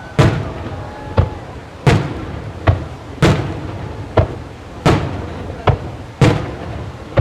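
Aerial fireworks shells bursting in quick succession, about ten sharp booms in seven seconds, each trailing off before the next.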